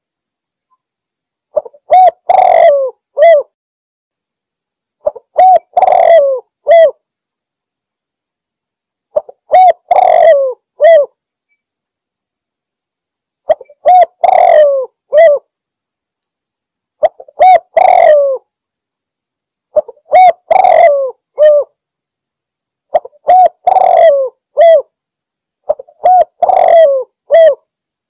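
Spotted dove cooing: a short phrase of several coos, repeated eight times at about three- to four-second intervals with silence between.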